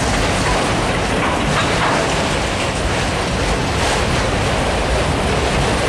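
Loaded multilevel autorack freight cars rolling past, a steady rumble of steel wheels on rail.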